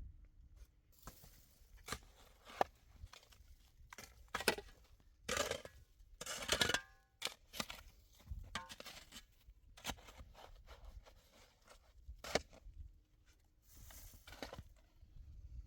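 Irregular sharp knocks, clicks and short scraping or tearing rustles of hands-on work, with a brief ringing clink about six and a half seconds in.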